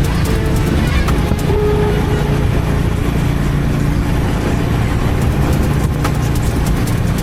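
Honda H'ness CB350's air-cooled single-cylinder engine and exhaust running steadily while riding, with wind and road noise.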